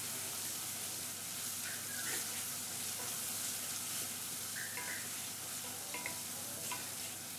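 Onion-tomato masala sizzling in oil in a stainless steel pan while a wooden spoon stirs it: a steady frying hiss as the masala is fried (bhuna) to readiness. A few short high chirps come through it.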